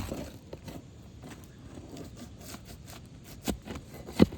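A tool scraping and clicking against brittle asphalt roof shingles as a hidden nail is worked loose, with one sharp knock near the end.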